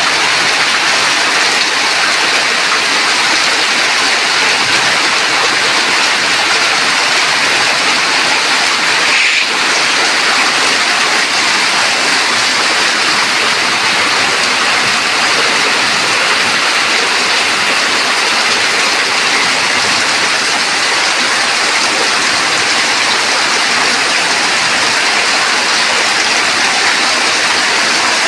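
Heavy rain pouring down in a steady, dense hiss, with one faint brief knock about nine seconds in.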